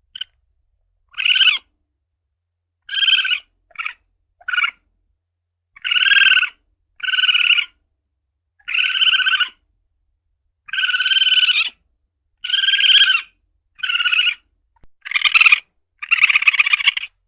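Asian palm civet (luwak) calling: a run of about a dozen short, pitched calls, each under a second, irregularly spaced with dead silence between them.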